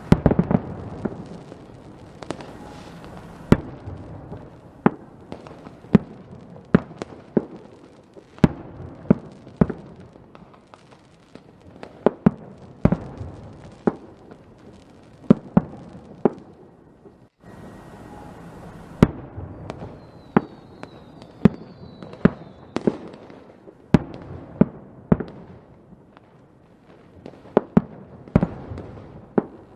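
Fireworks going off: a dense, irregular run of sharp bangs from bursting shells over a rumbling crackle. A few short high whistles come about two-thirds of the way through, and the sound cuts out for a moment shortly before that.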